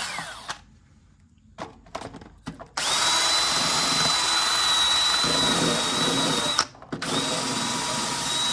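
Electric drill spinning a wire brush against the engine's gasket surface to scour off old gasket material. It winds down at the very start, then runs in a long steady burst of nearly four seconds with a high whine and a second shorter burst near the end, with a few light taps between.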